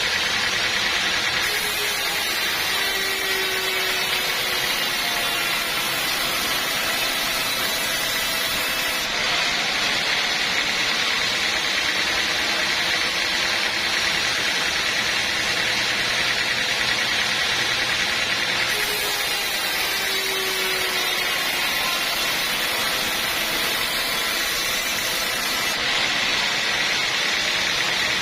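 Sawmill saw and machinery running steadily, a dense continuous noise whose upper edge changes every several seconds.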